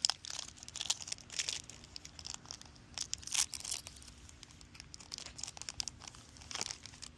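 Foil trading-card booster pack crinkling and rustling in the hands in irregular bursts, with short tearing sounds as it is ripped open.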